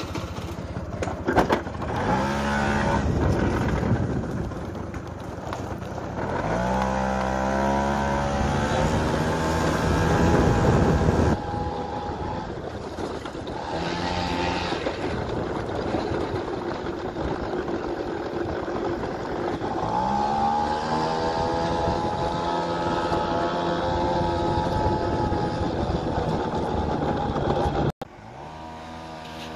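Honda Vision moped's small engine being ridden hard, revving up several times with its pitch climbing and falling away between pulls. A few sharp clicks come right at the start, and the sound cuts off abruptly near the end.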